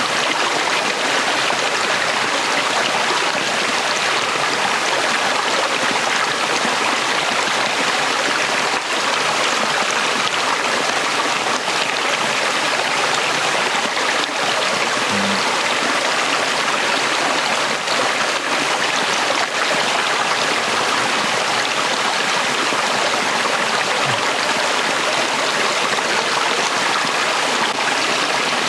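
Small shallow stream flowing steadily over stones, a constant rushing and trickling.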